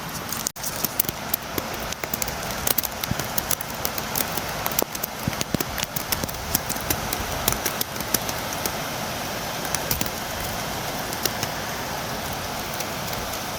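Steady rain with many sharp drops tapping on a window, the taps thick for most of the stretch and thinning out near the end. A split-second dropout about half a second in.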